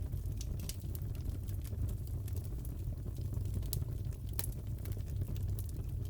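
Crackling fireplace: a steady low rumble of burning wood with many small, sharp crackles and pops scattered irregularly throughout.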